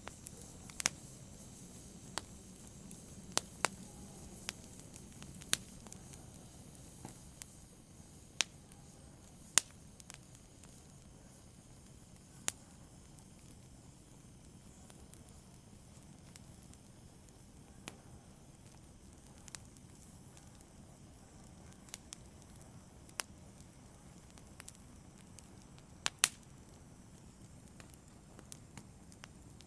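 Wood fire crackling in a fireplace: irregular sharp pops and snaps, a few much louder than the rest, over a soft steady hiss of burning.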